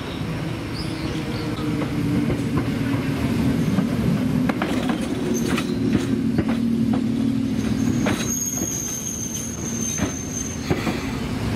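Hakone Tozan Railway electric train (car 1001) passing close by at low speed, with a steady motor hum and wheels clicking over rail joints. About eight seconds in, a high, steady wheel squeal sets in for a couple of seconds.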